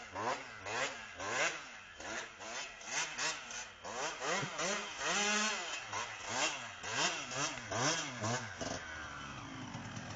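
Motocross bike engine revving up and down repeatedly, its pitch climbing and dropping about once a second. Near the end it settles to a steadier, lower run.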